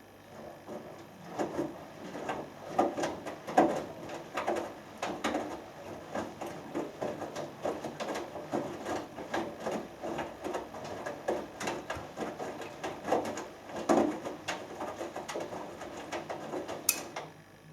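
Hoover Dynamic Next front-loading washing machine turning its drum during the main wash: wet laundry and water thudding and sloshing over and over. A sharp click comes just before the tumbling stops near the end.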